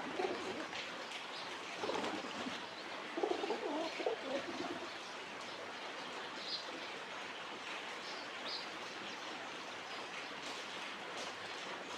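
Pigeons cooing: several low, wavering coos in the first five seconds, with a few short high chirps from small birds later on, over a steady background hiss.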